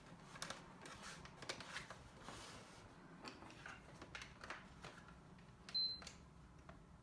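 Faint clicks and handling of the console, then about six seconds in a single short, high beep from a PS4 Slim as it is switched on for a test after its blue-light-of-death repair.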